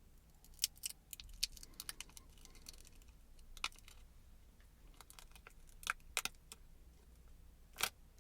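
Small plastic gouache paint cups being handled and opened, giving irregular sharp clicks and light crinkles in scattered clusters, with the loudest click near the end.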